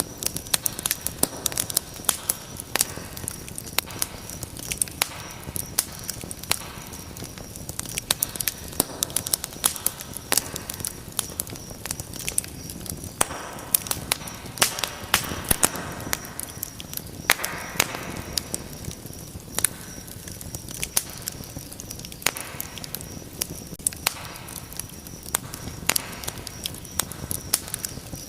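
Wood fire crackling, with many sharp pops and snaps over a soft hiss of flame that swells for a few seconds about halfway through.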